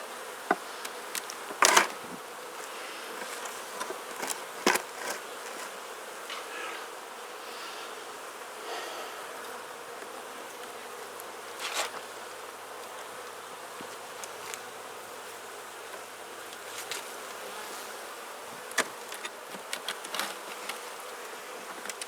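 Honeybees buzzing steadily around an opened Langstroth hive, with a number of sharp knocks and clicks as the wooden frames are worked loose.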